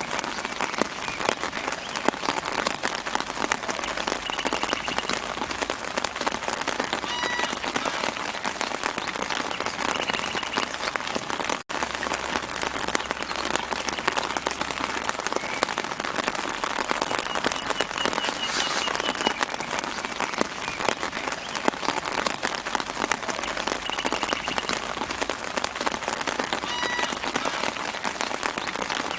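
Steady soft rain pattering densely on tree leaves, with a small bird giving short faint chirps now and then. The sound cuts out for an instant near the middle.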